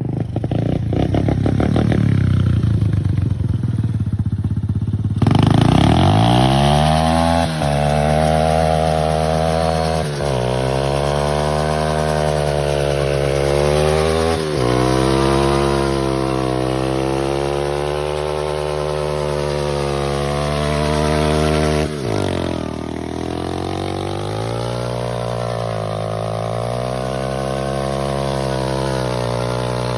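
Small single-cylinder motorbike engine: a low, pulsing run for about five seconds, then revving up. Its pitch climbs and drops sharply about four times, with steadier stretches in between.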